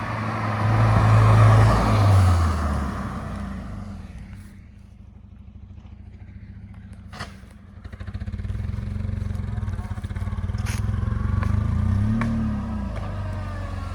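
Dodge Neon's engine running loudly with a rev that drops back about two and a half seconds in. It idles lower for a few seconds, then picks up again with another short rev near the end.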